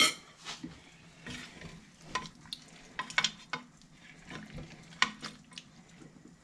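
A spoon or other utensil scraping and clinking against a cooking pot and dish in short, irregular strokes, as cooked chicken feet are dished out.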